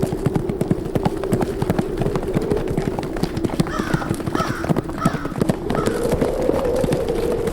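Horses galloping, a dense uneven patter of many hoofbeats, over steady wind with a tone that sinks a little in the middle and rises again near the end. Four or five short calls sound in the middle.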